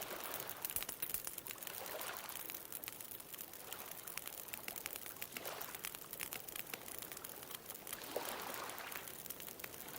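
Wood bonfire crackling with frequent small pops and snaps, over ocean waves washing in, a soft swell every few seconds.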